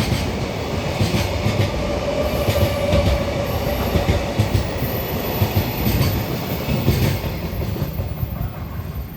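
Container freight wagons rolling past: a heavy steady rumble with wheels clattering over rail joints. A faint wheel squeal is heard from about two to four and a half seconds in, and the rumble eases a little near the end.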